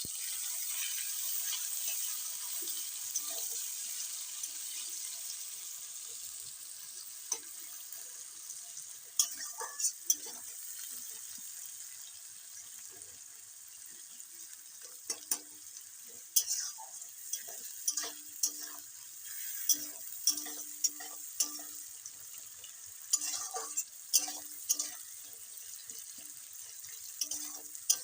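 Chopped onion frying in hot mustard oil in a kadai, a steady sizzle that slowly dies down. From about nine seconds in, a spatula repeatedly scrapes and knocks against the pan as the onion is stirred.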